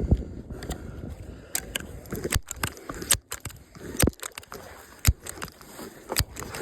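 Irregular crunching and scraping, with sharp clicks about once a second.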